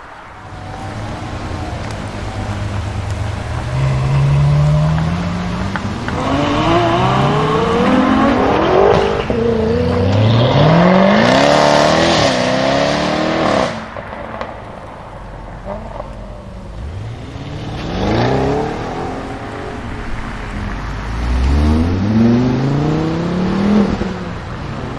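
Jaguar F-Type SVR's supercharged 5.0-litre V8 accelerating hard several times in a row. The loud exhaust note rises in pitch and drops back at each upshift, and the loudest pull is in the middle.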